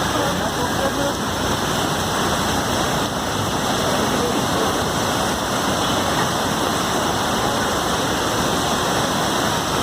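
Steady, loud noise of water, even and unbroken throughout.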